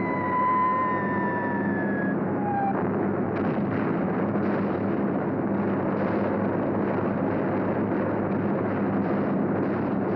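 Steady drone of piston aircraft engines, with a tone sliding slowly downward over the first couple of seconds and an uneven pulsing roughness from about three seconds on.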